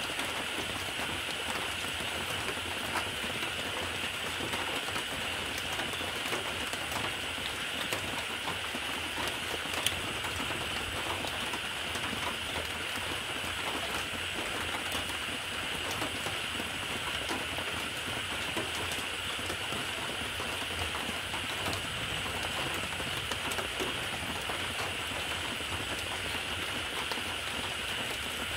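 Steady rain falling on a surface: a constant even hiss made of many fine, irregular drop ticks, with one sharper tick about ten seconds in.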